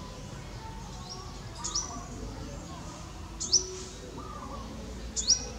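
A bird calling with three sharp, high chirps about two seconds apart, over fainter calls from other birds in the background.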